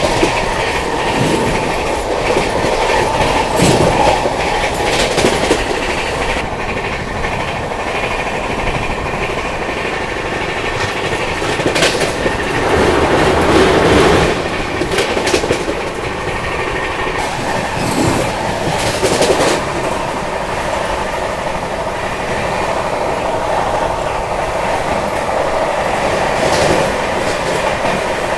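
Sealdah Rajdhani Express coach running at speed, heard from alongside the carriage: a steady rush of air and rolling wheels with an irregular clickety-clack of wheels over rail joints and points. The sound swells for about two seconds midway as the train crosses a bridge.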